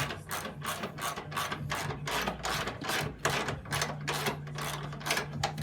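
A ratcheting mechanism clicking in quick, even strokes, about four a second, over a steady low hum.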